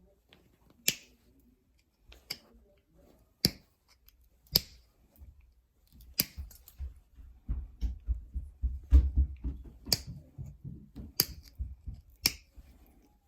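Novaculite being pressure-flaked into a stemmed point: a series of sharp, crisp clicks, about one a second, as flakes snap off the edge. Quieter rubbing and handling of the stone sit between the clicks in the middle of the stretch.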